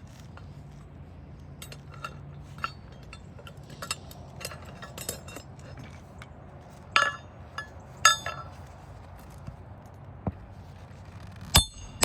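Hammer driving a roofing nail home through an asphalt shingle: scattered light taps, then sharp metallic ringing blows, two around the middle and another near the end.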